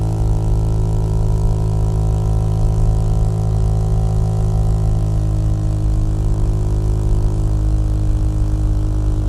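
Small-displacement custom motorcycle engine and exhaust running at a steady speed, an even, low rumble.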